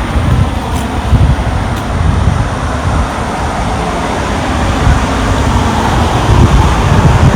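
Wind buffeting the microphone in irregular low gusts, over a steady hiss of road traffic that swells a little in the middle.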